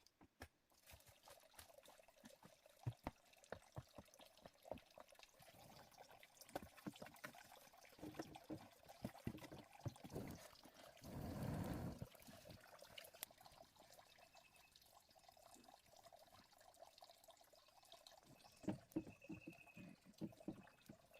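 Faint small clicks and knocks of handling throughout, with a short pour of water about eleven seconds in.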